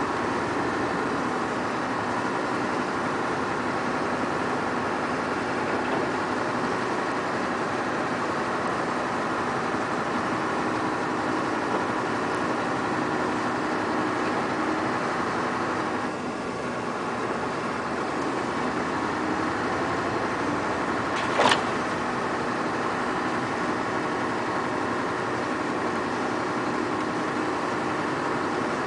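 Scania R580 timber truck's 16-litre V8 diesel running steadily, with one short sharp sound about two-thirds of the way through.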